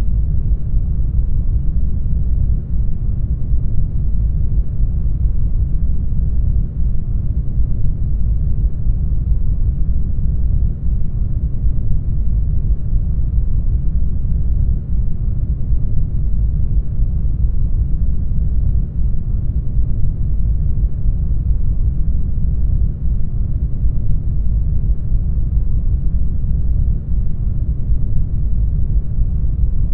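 Brown noise: steady, unchanging noise, deep and heavy at the bottom and fading away toward the higher pitches.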